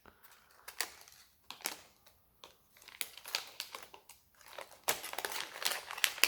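Plastic lure packaging crinkling, with small clicks as lures are handled. The clicks are sparse at first and come thick and fast over the last second or so.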